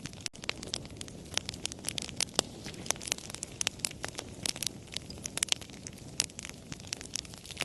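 Campfire crackling: irregular sharp pops and snaps, several a second, over a steady low rustle of burning. The sound drops out for an instant just after the start.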